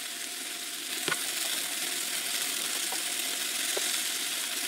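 Sliced bell peppers and onions sizzling in a cast iron skillet, a steady frying hiss, with a single sharp click about a second in.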